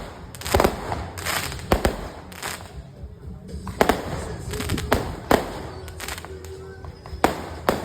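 Fireworks going off in a string of about a dozen sharp, irregularly spaced bangs, some coming in quick pairs.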